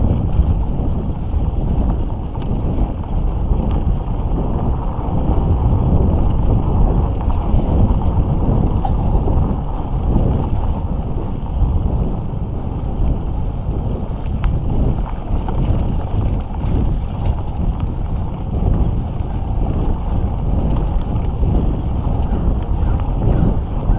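Wind buffeting the microphone of a camera on a moving mountain bike: a loud, steady rumble with a few faint clicks and rattles.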